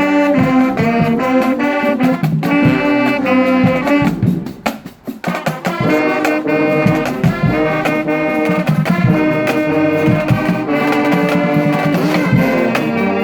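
Marching band brass and drums playing, with held horn chords and steady drum hits; the band stops briefly about four seconds in, then comes back in.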